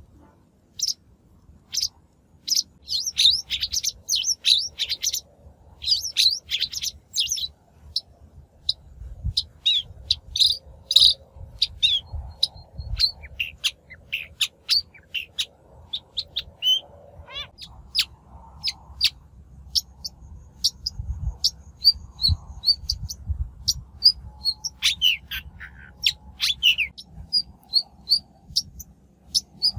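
Shrike singing a lure song: a rapid, busy run of short sharp chirps, squeaky notes and quick slurred calls, with a faint low rumble underneath.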